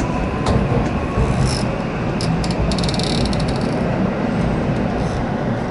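Electric commuter train running, heard from inside the front car behind the driver's cab: a steady low rumble from the running gear, with a quick run of light clicks a little under halfway through.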